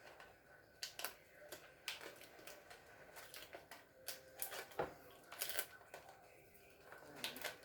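Irregular clicks and rustling as hands work a wire and tape into a refrigerator's air damper assembly, with a sharper knock about five seconds in.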